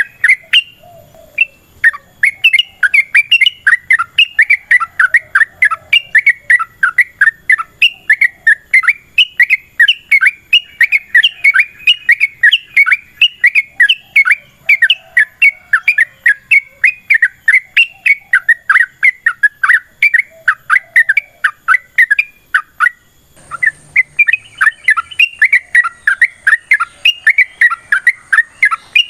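Yellow-vented bulbul (trucukan) calling in a long, fast, unbroken run of short sharp chattering notes, several a second, the long rapid sequence known as ropel panjang. The run breaks briefly about a second in and again near the end.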